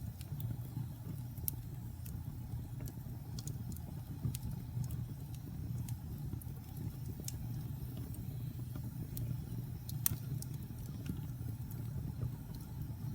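Wood fire burning in a fireplace: a steady low rumble of flames with scattered small crackles and pops, one sharper pop about ten seconds in.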